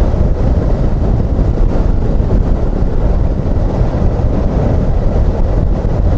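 Suzuki XF650 motorcycle's single-cylinder engine running steadily under way, mixed with a heavy, steady wind rush on the microphone.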